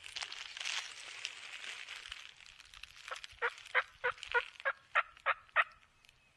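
A run of about nine loud turkey yelps, roughly three a second, over the second half, after a couple of seconds of rustling in dry leaves.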